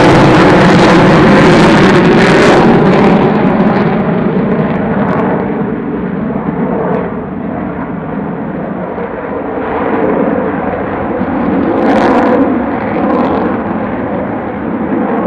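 Avro Vulcan XH558's four Olympus turbojets roaring in a display flypast. Loudest for the first three seconds, then falling away, and swelling again about twelve seconds in.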